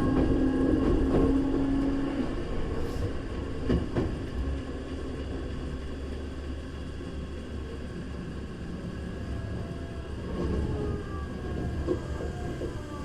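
Running sound inside a Hankyu 3300 series electric train car under way: a steady rumble of wheels on rail, with a strong motor tone that stops about two seconds in and a sharp clack near four seconds. Faint tones slide in pitch near the end.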